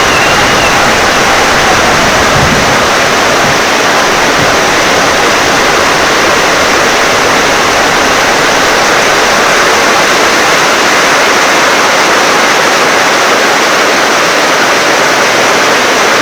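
Heavy rain pouring steadily as a loud, even hiss, with a low rumble of thunder fading out in the first few seconds.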